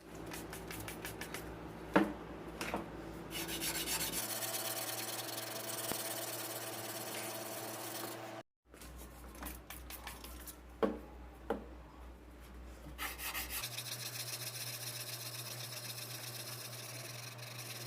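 Quick back-and-forth strokes of hand abrasion, a file or abrasive being worked by hand, in a few short stretches, with two or three sharp knocks in between.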